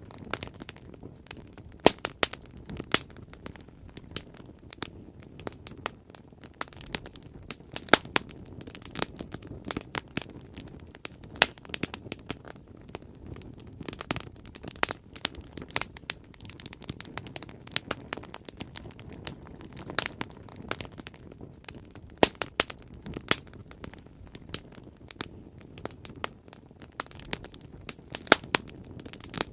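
Wood bonfire burning, with sharp irregular pops and snaps over a steady low rumble of flame.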